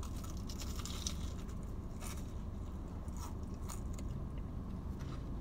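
A person biting and chewing a fried cheesecake bite with a crisp shell, with a few short crunches, over a steady low hum.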